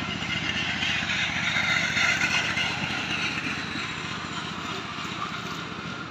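Small boat's engine running steadily, with a hissing rush over it that swells about two seconds in and then eases.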